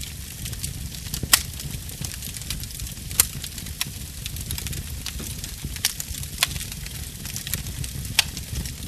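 Wood fire crackling in a fireplace: a steady low rumble of flames with frequent sharp pops and snaps, three of them louder than the rest, about a second in, about three seconds in and near the end.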